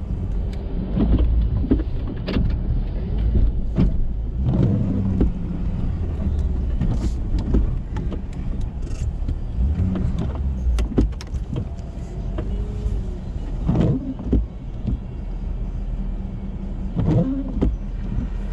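Ford F-350 pickup's engine running steadily while it plows snow with a Boss plow, with scattered knocks and clunks. A brief whine comes near the middle.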